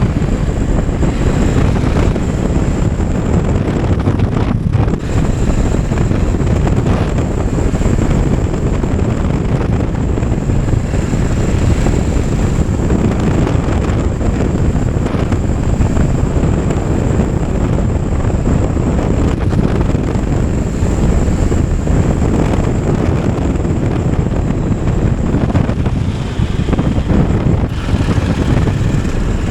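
Motorcycle riding at steady speed: engine running under a loud, continuous rush of wind buffeting the microphone.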